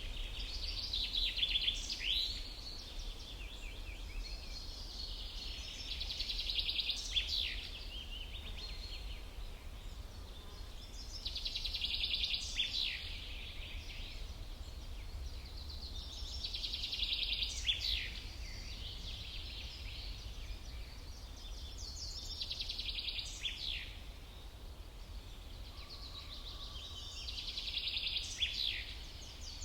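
Songbird singing a short, high phrase of about two seconds roughly every five to six seconds, each phrase ending in a few quick downward sweeps, over a steady low rumble.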